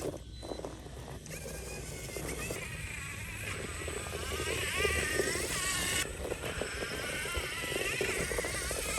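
Electric motor and gear drivetrain of a 1/10 scale RC rock racer whining as it climbs over rocks, its pitch rising and falling with the throttle, over the rumble of the tyres on the rock.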